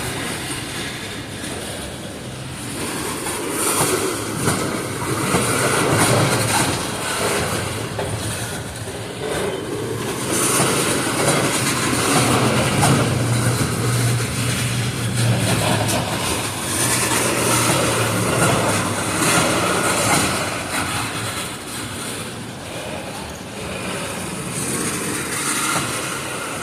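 Freight cars of a mixed manifest train rolling slowly past, their wheels clacking over the rail joints, with a high squeal coming and going as the train slows toward a stop.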